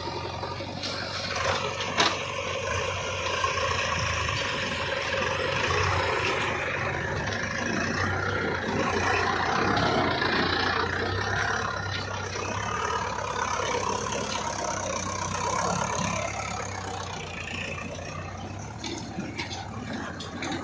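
Diesel engine of heavy earthmoving machinery running steadily, with a sharp click about two seconds in.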